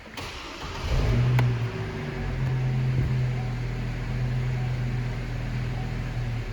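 Pickup truck engine started after a couple of key clicks: it catches about a second in, swells briefly, then settles into a steady idle.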